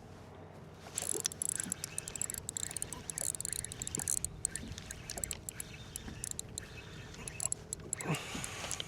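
Fishing reel being cranked to fight and bring in a small hooked gag grouper: a dense run of fast clicks and rattling that starts about a second in, with a short louder rush of noise near the end.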